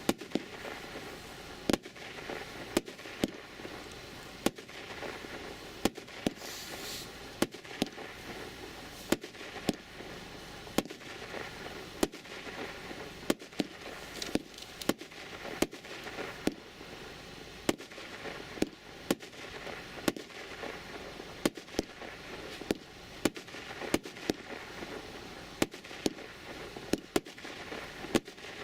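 A 160-shot, 30 mm fireworks cake (V.I.P. SU 20-160) firing in a continuous volley. Sharp bangs of bursting shells come about once a second at uneven spacing, over a steady background of launch noise.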